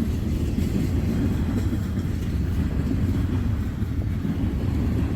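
Freight train rolling past, a steady low rumble that does not let up.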